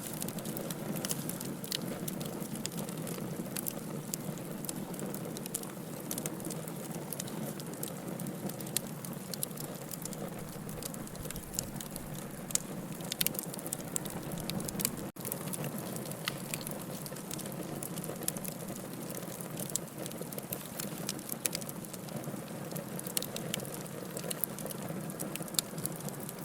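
Wood campfire burning: crackling, with frequent sharp pops scattered over a steady hiss. The sound breaks off for an instant about halfway through.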